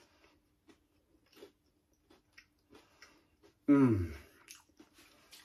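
A person chewing crispy coated hash brown fries: soft, scattered crunches and mouth clicks. About four seconds in comes a short, loud voiced hum falling in pitch.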